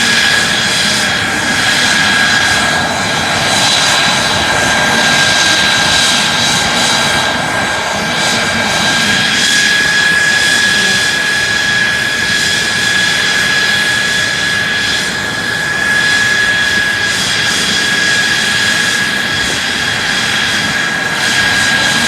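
Mitsubishi F-2 fighter's F110 turbofan jet engine running steadily during a ground run, a loud rushing roar with a constant high-pitched whine over it.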